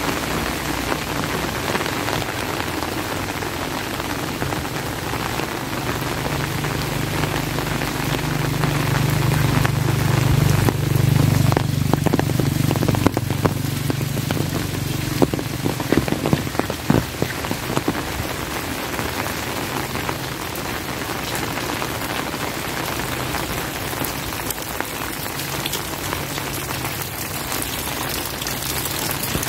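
Steady rain falling, with scattered sharp drops tapping close by. A low drone of unclear source swells up through the middle and fades out again.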